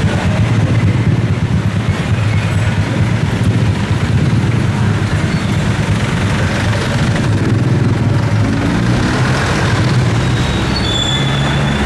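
Street traffic with vehicle engines running and passing, a steady low rumble.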